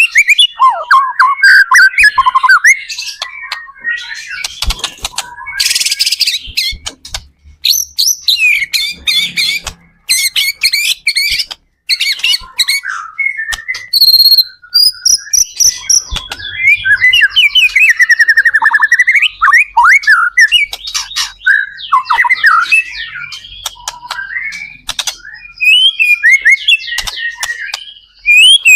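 White-rumped shama (murai batu) in full, varied song: rapid whistled phrases, trills and sliding notes in quick succession with brief pauses between bursts.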